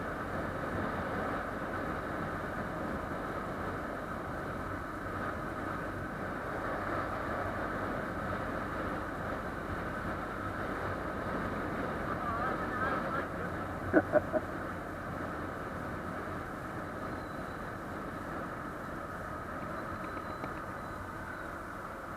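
Steady engine and road noise of a motorcycle being ridden, with three short sharp sounds close together about fourteen seconds in.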